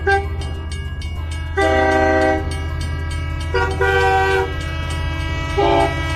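Battery-powered toy train running, its motor humming with a fast, even clatter, while its electronic horn sounds several short toots of shifting pitch, the first about a second and a half in and the last near the end.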